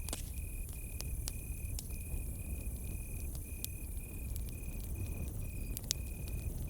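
Crickets chirping in short, evenly spaced high-pitched pulses about two a second, over a campfire crackling with scattered sharp pops, a loud one about six seconds in, and a low steady rumble beneath.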